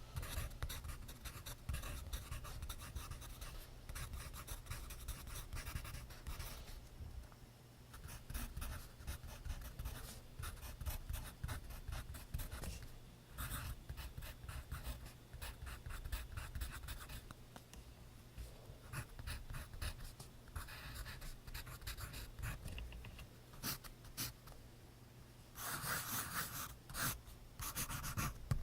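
Pencil scratching on notebook paper in quick runs of strokes, with short pauses between runs. A louder, longer rustle of about a second and a half comes near the end.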